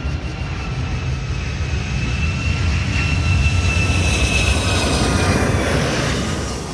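Jet airliner passing overhead: a high engine whine that falls slightly in pitch over a deep rumble, swelling to its loudest a few seconds in and easing off near the end.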